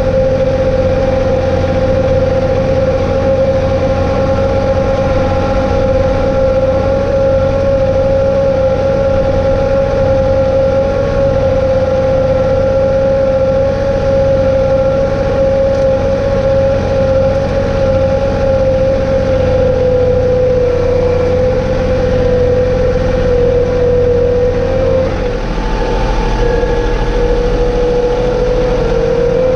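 John Deere 2032R compact tractor running steadily, with a strong, steady whine over the engine note. The low rumble shifts about 25 seconds in as the engine's load or speed changes.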